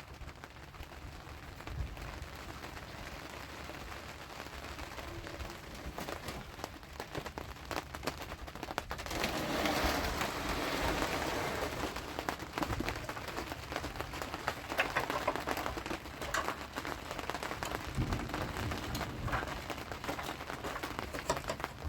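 Heavy rain falling, with many separate drops striking close by; it grows louder about nine seconds in and is heaviest for the next few seconds.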